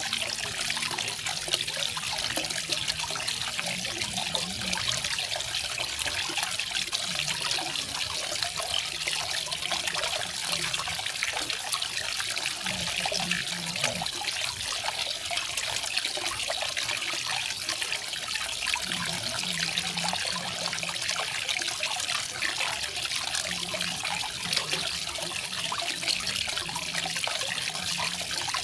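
Small garden waterfall: water falling and splashing steadily, mostly a bright, even hiss with faint low gurgles now and then.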